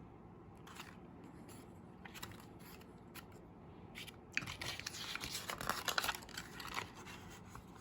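Paper rustling and crinkling as the pages of a picture book are handled and turned, starting about four seconds in and lasting a few seconds; before that, only faint room tone.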